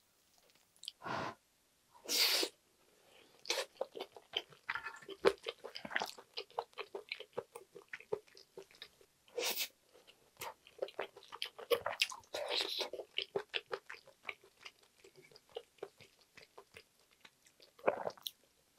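Close-up eating sounds of a mouthful of spicy fried rice with pork gopchang: steady chewing with many small wet mouth clicks, and a few louder bursts along the way. Chopsticks and a spoon scrape and tap on the griddle between bites.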